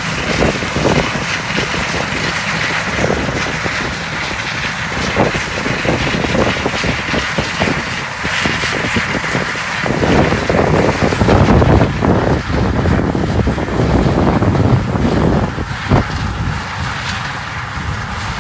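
Harvest machinery running steadily, its low rumble growing heavier about halfway through, with wind buffeting the microphone.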